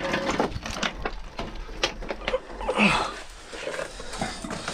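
Irregular crunches and knocks, with a brief voice-like sound about three seconds in.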